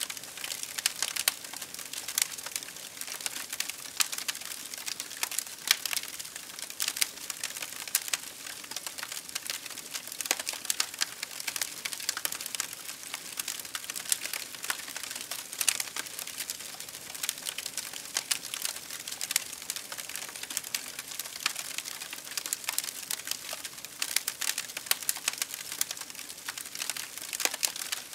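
Campfire crackling and popping: many sharp, irregular snaps and pops over a soft hiss of burning wood.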